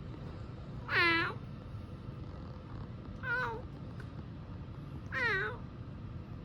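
A kitten meowing three times, short high-pitched cries about two seconds apart, over a steady low hum.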